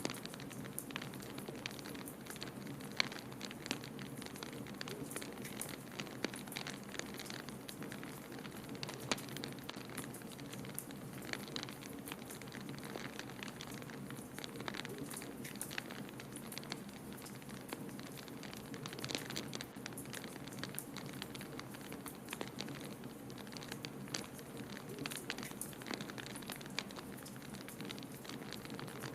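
Wood fire crackling in a fireplace, with frequent irregular sharp pops and snaps over a steady low rushing of blizzard wind.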